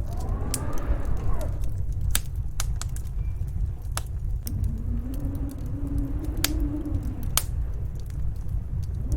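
Fireplace crackling with sharp, scattered pops over a steady low rumble of snowstorm wind. The wind howls in slow rising-and-falling moans, once near the start and again around the middle.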